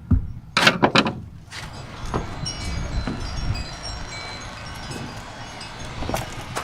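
A few clunks of the pickup's cab door, then the cab's warning chime dinging over and over.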